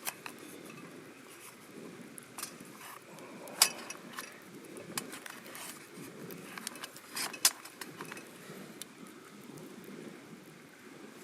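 Wood campfire burning with a low steady rustle and a handful of sharp cracks and clicks scattered through it, the loudest about a third of the way in and again past the middle.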